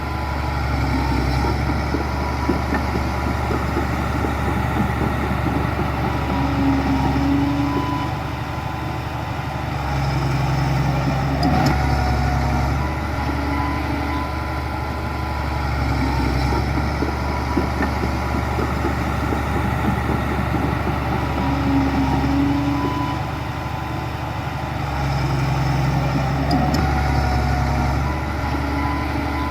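Heavy diesel engine of an earthmoving machine running steadily, its note swelling and easing every several seconds as the load changes, with a brief faint squeal twice.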